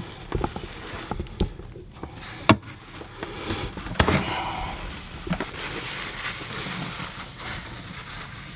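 Scattered metallic knocks and clicks as a small oil filter wrench is worked on the engine's oil filter to loosen it.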